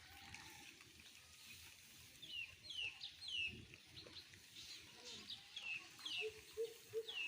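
A bird's faint, repeated high peeps, each falling in pitch, about two a second from roughly two seconds in.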